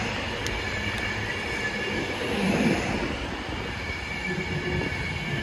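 A train moving through the station, its wheels giving a steady running noise on the rails.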